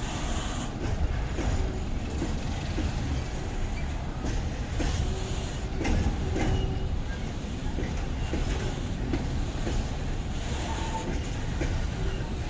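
A train rolling by with a steady low rumble, its wheels clattering irregularly over rail joints and giving a few brief squeals.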